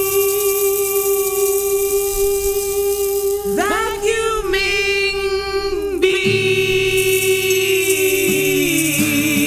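Music with singing: a long held note, sliding swoops in pitch about halfway through, then another long note that steps down near the end.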